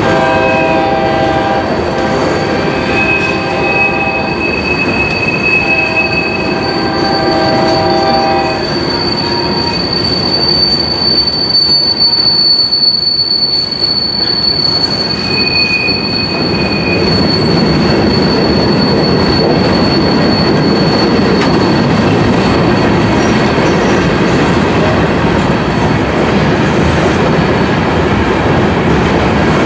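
Freight train cars rolling past, with a steady noise of wheels on rail and a long, high wheel squeal. A locomotive air horn sounds two long blasts over the first eight seconds or so.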